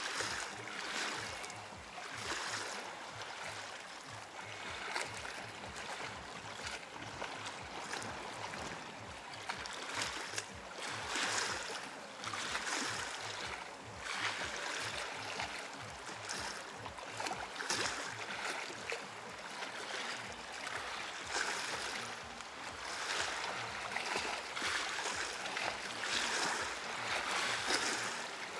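Small sea waves washing onto the beach: a steady hiss of surf that swells and eases every second or two.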